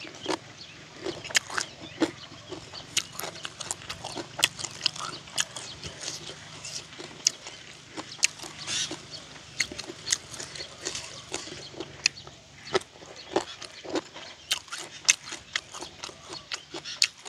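Close-up eating sounds of a mouthful of grilled frog and papaya salad being chewed: wet smacking and crunching in quick, irregular clicks, about two to four a second. A faint low hum runs underneath and stops about three-quarters of the way through.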